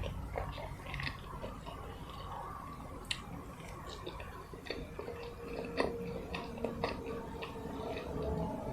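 Close-miked chewing: soft, wet mouth sounds with irregular small clicks and smacks.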